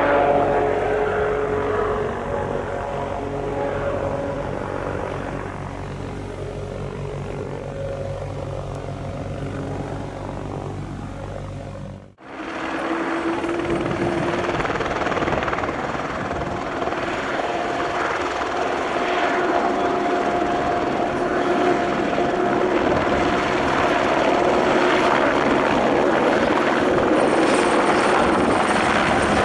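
Piaggio P180 Avanti's twin turboprop engines running with a steady tone, fading over the first several seconds. After an abrupt cut, a helicopter's engine and rotor run steadily, with a high steady whine over the rotor noise.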